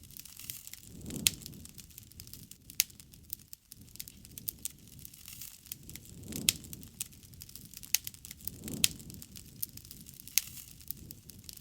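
Wood fire crackling steadily, with frequent sharp pops from the burning wood and a few soft, low swells of flame.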